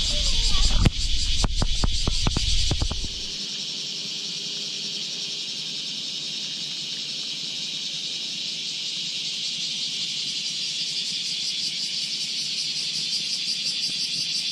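Cicadas droning in a steady, high-pitched chorus. During the first three seconds, a low rumble and a quick run of sharp clicks and knocks sound close to the microphone, then stop.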